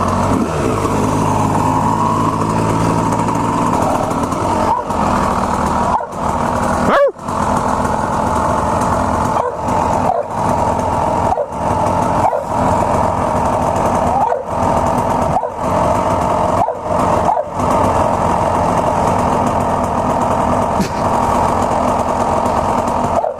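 Two-stroke dirt bike engine running under throttle while riding, with brief cut-outs every second or so as the throttle is chopped and reopened, and a quick drop in revs about seven seconds in.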